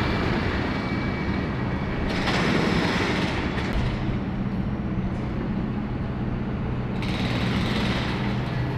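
City road traffic, with a vehicle engine running steadily close by as a low, even hum.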